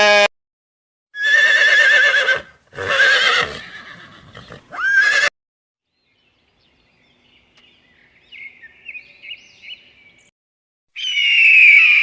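Horse whinnying: three loud, high, quavering neighs in quick succession, the last rising in pitch. After a few seconds of faint sounds, a different loud animal call begins near the end.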